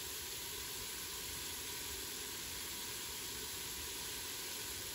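Onions and baby carrots sizzling steadily as they sauté in a stainless steel stock pot.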